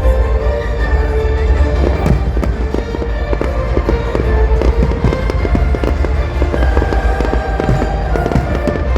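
Fireworks display crackling and popping, with dense rapid pops and bangs from about two seconds in, over a low rumble and background music.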